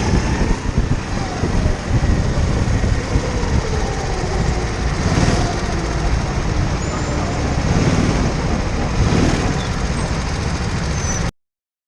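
Indoor go-kart engine running as the kart drives, a dense rumbling noise heard through the onboard camera's housing. The sound cuts off abruptly near the end.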